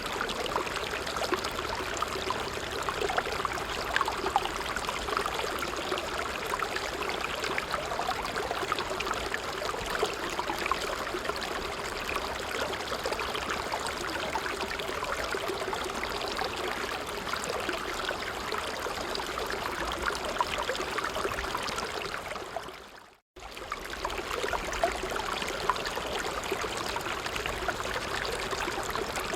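Small stream running over stones, a steady babbling and trickling. About 23 seconds in it fades out to a moment of silence and comes straight back, as at the seam of a looped recording.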